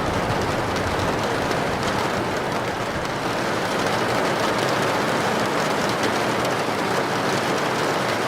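Heavy rain falling steadily on a tin roof, an even, unbroken patter at a constant level.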